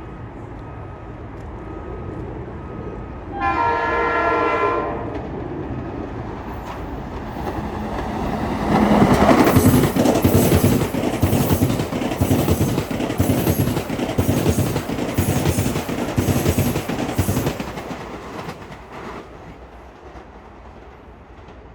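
Metro-North commuter train sounding one short horn blast, then passing at speed with a loud rumble and rapid, rhythmic clatter of wheels over rail joints, fading away near the end.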